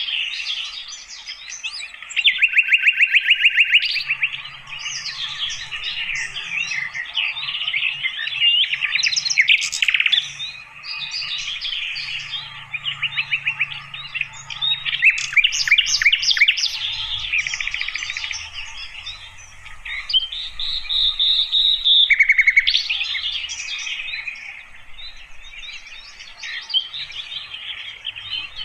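Birds singing and calling over one another in a busy chorus, including the song of the sikatan londo (a flycatcher). Fast rattling trills stand out about two seconds in and again near the twenty-second mark.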